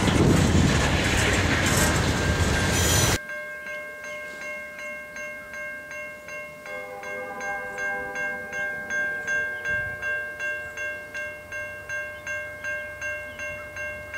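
Freight train boxcars rolling past with steady wheel rumble and clatter, cutting off abruptly about three seconds in. Then a railroad crossing warning bell rings steadily, about two strikes a second.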